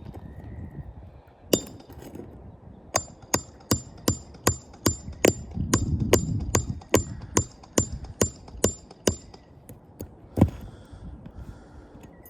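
Hammer driving nails during a shingle roof repair. A single ringing blow comes first, then a steady run of about fifteen blows at roughly two and a half a second, and one last loud blow near the end.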